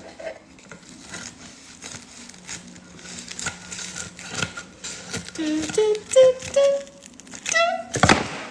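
Kitchen scissors cutting through a sheet of baked puff pastry: a run of short, crisp, crackly snips and crunches, with a louder crunch near the end.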